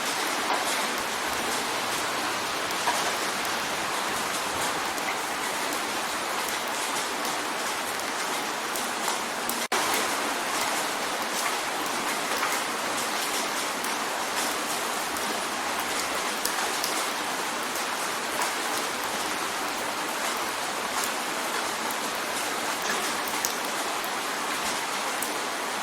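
Steady rain drumming on a window pane: a dense, even hiss of rain with many small individual drop taps through it. A split-second dropout breaks it about ten seconds in.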